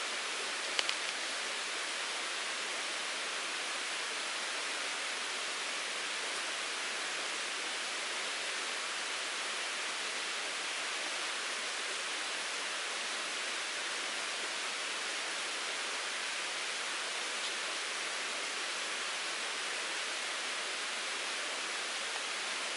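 Mountain stream water rushing and babbling steadily. A brief click about a second in.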